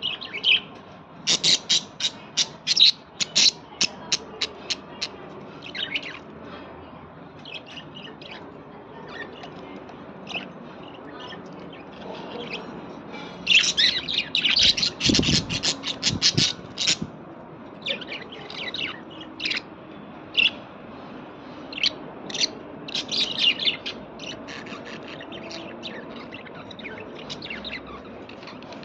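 Small birds chirping in quick runs of short, high notes, in several clusters with pauses between them. A brief low knock sounds about halfway through.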